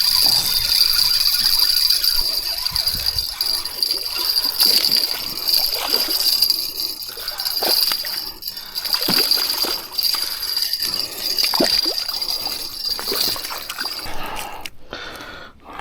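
A hooked fish splashing at the water's surface as it is reeled in, with scattered rattles and clicks. A steady high-pitched whine and hiss runs underneath and stops shortly before the end.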